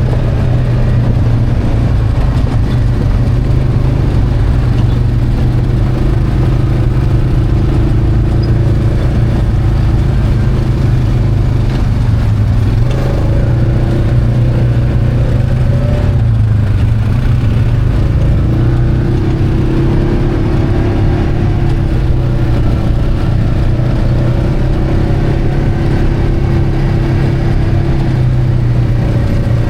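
UTV engine running steadily under way on a dirt trail, heard from on board, its note shifting up and down a little as the driver changes speed.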